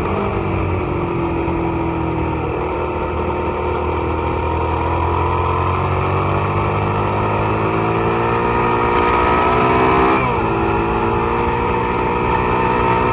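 Suzuki SV650's V-twin engine on track under throttle. Its pitch dips briefly at the start, then climbs steadily through the revs for about ten seconds, drops sharply once as it shifts up a gear, and starts climbing again.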